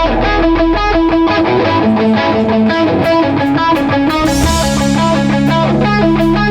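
Live oi punk band playing loud: a fast electric guitar riff over bass and drums, with a cymbal crash about four seconds in.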